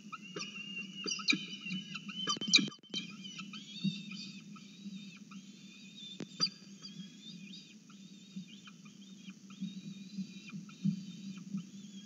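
Rapid, high-pitched screaming calls repeated many times a second from a live small bird caught in a peregrine falcon's nest, loudest in the first few seconds, with a few sharp knocks and a steady low hum underneath.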